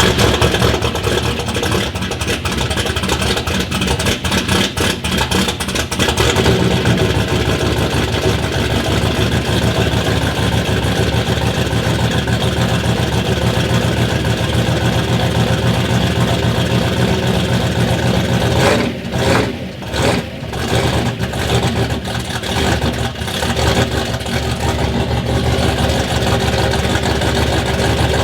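Ford Ranger truck's rebuilt turbocharged engine running just after firing up, uneven for the first several seconds and then settling into a steady run. The level dips briefly twice about two-thirds of the way through.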